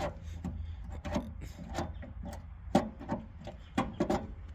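Irregular clicks and knocks, about a dozen, as the fuel shut-off and throttle linkage of a 1973 Ford 4500 diesel backhoe is worked by hand.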